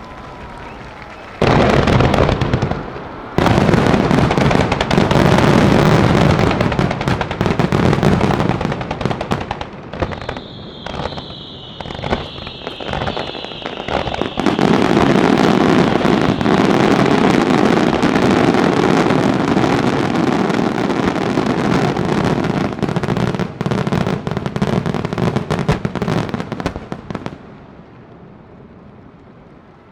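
Fireworks finale: a dense, continuous barrage of shell bursts and crackling that starts suddenly about a second and a half in. It breaks off briefly, runs on loud, and dies away near the end.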